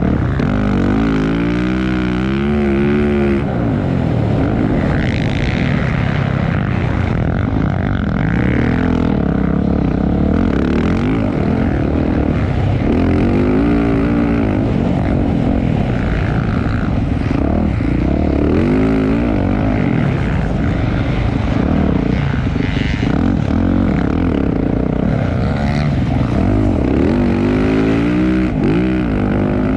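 Motocross bikes racing on the track, their engines revving up and down over and over as riders accelerate, shift and back off, with more than one bike heard at a time.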